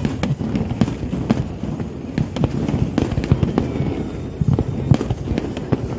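Fireworks going off in a dense barrage: many sharp crackling bangs at irregular intervals, several a second, over a continuous low rumble of distant explosions.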